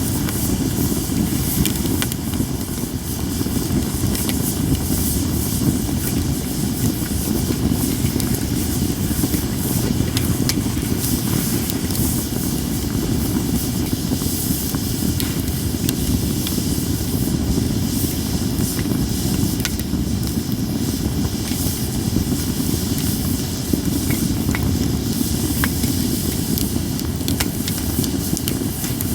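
Japanese cedar campfire burning with a steady low rush and a continuous hiss, with scattered sharp crackles and pops from the burning wood.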